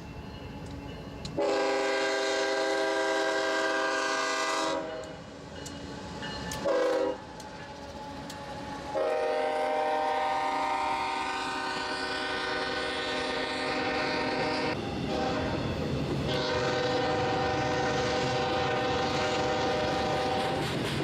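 Diesel freight locomotive air horn sounding a crossing signal: a long blast, a short one, then two long blasts, with the train's rumble growing louder underneath as it nears.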